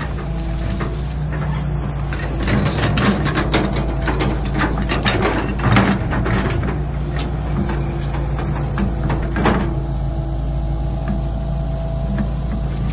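Excavator running: a steady engine hum with a series of clanks and knocks, thickest from about two seconds in until near ten seconds.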